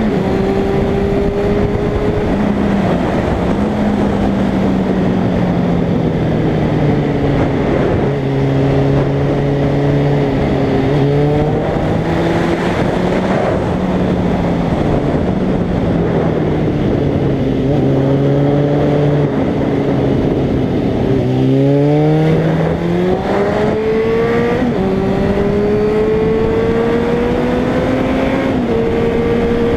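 Suzuki Bandit's inline-four engine pulling the bike along with wind rushing over the microphone. The engine note sinks and climbs with the throttle and gear changes, dipping and then rising sharply about two-thirds of the way through before climbing steadily again.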